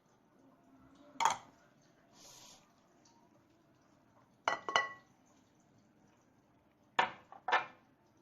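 Kitchen utensils and dishes clinking: a single clink, then two pairs of sharp clinks, some ringing briefly, with a short soft hiss between the first two.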